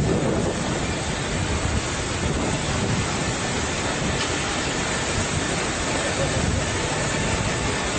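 Steady rushing and rumbling noise of a jet airliner with its engines running.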